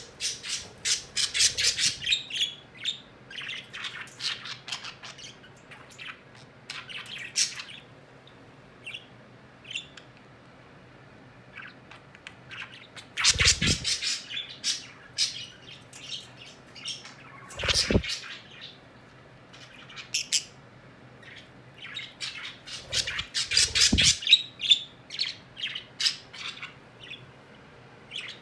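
Pet birds chirping and squawking in short clusters of rapid calls, with quieter gaps between them. Three dull low thumps come in among the louder clusters.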